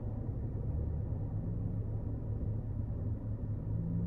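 Car engine idling, a steady low rumble heard inside the cabin.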